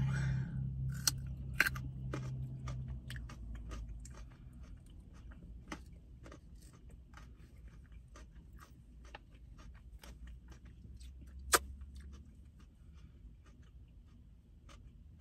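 Close-up chewing of raw carrot sticks dipped in ranch: a quick run of crisp crunches, loudest in the first couple of seconds, then growing softer as the bite is chewed down, with one sharp crack about eleven seconds in.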